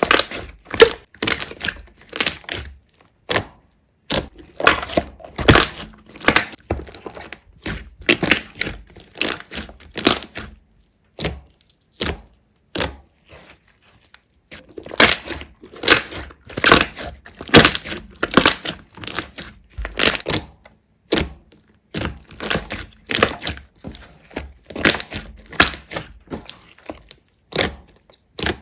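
Slime being pressed and poked by hand, giving a long series of sharp crackling pops and clicks, a few a second, that thin out for a few seconds midway.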